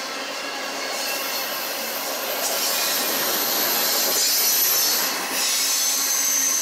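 Union Pacific intermodal freight train's cars rolling past, a steady rumble and clatter of wheels on rail with thin high squealing tones from the wheels.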